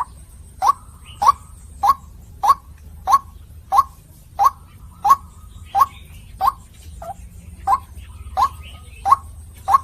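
White-breasted waterhen (ruak-ruak) calling: a short rising note repeated monotonously and evenly, about three notes every two seconds, over a low steady hum.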